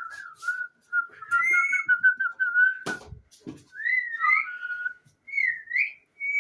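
Parrot whistling: a wavering whistle held near one pitch for about three seconds, then short rising and falling whistles. A sharp click about three seconds in.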